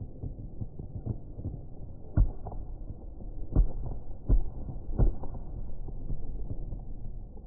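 Fireworks shells bursting as a run of low, muffled booms over a continuous rumble of smaller bursts. The four loudest come at about 2, 3.5, 4.3 and 5 seconds in.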